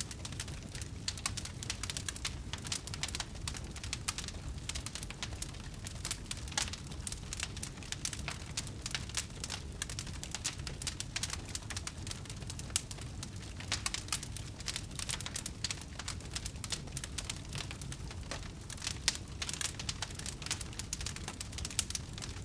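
Wood fire burning in a fireplace, crackling with many irregular small pops over a low steady rumble of the flames.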